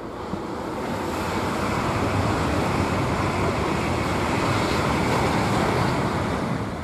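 High-speed train passing at speed: a rushing noise that builds over the first two seconds, holds, and dies away near the end.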